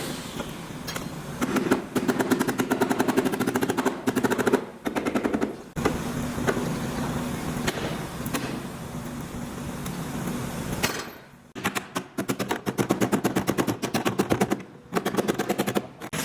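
Rapid mechanical rattling, about fifteen strikes a second, in several bursts of a few seconds each over a steady background hum.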